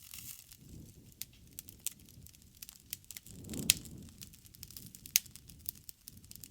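Wood bonfire crackling, with irregular sharp snaps and pops over a low rumble of the flames. The loudest snap comes a little past halfway, and another follows about a second and a half later.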